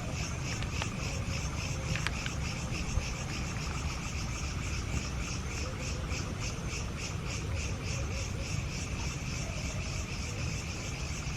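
Insects chirping in a steady pulsing rhythm, about three pulses a second, over a constant low rumble.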